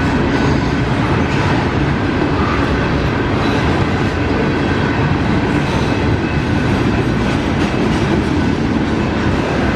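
Union Pacific mixed freight train's cars rolling past, a steady loud rumble and clatter of steel wheels on rail with no horn.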